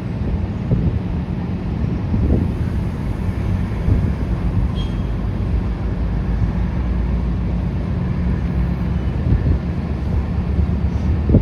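A MARC commuter train's passenger coaches rolling past: a steady low rumble of wheels on the rails, with a few brief knocks.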